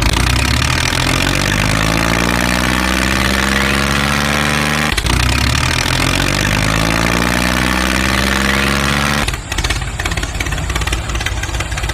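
Engine revving, its pitch climbing steadily for about five seconds. The climb breaks off suddenly and starts over, then the engine runs roughly near the end.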